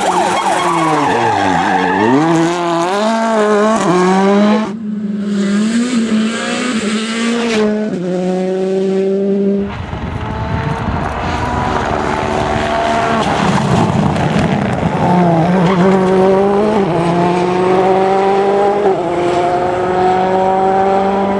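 World Rally Cars' turbocharged 1.6-litre four-cylinder engines at full rally pace. In the first part the engine pitch falls as a car slows for a bend, then rises again as it accelerates away. The sound changes abruptly twice, and then a car accelerates hard through several upshifts, the pitch climbing and dropping back at each gear change.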